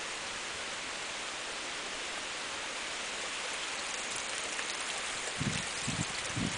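Steady gentle rain falling, an even hiss of raindrops. Near the end come three short low thumps.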